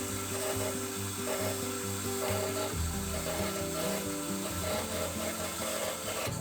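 A turning tool working a spinning wood blank on a lathe, a steady scraping hiss, under background music with a stepping melody and bass line.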